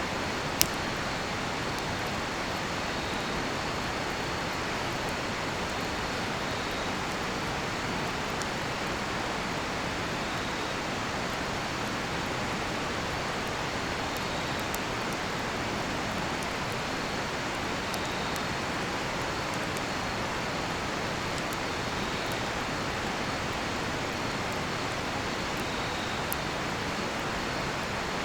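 Steady rush of a nearby river with a cedar-wood campfire crackling, one sharp pop less than a second in and faint ticks after. Crickets keep up a steady high trill over it, with a second insect chirping every few seconds.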